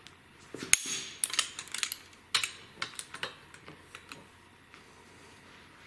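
Irregular sharp metallic clicks and clacks of a wrench tightening connecting-rod nuts on the crankshaft of an air-cooled Porsche 911SC flat-six. They are dense in the first few seconds, the loudest about a second in, and thin out to a few faint ticks.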